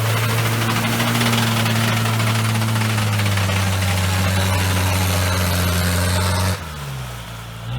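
Off-road vehicle engine held at high revs under load, with a steady note and a noisy hiss over it. The pitch dips slightly about three seconds in, and the revs drop off suddenly near the end.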